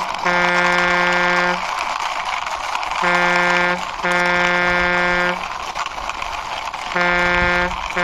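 Truck air horn honking in pairs, a short blast then a longer one, repeating about every three and a half seconds over a steady rushing noise.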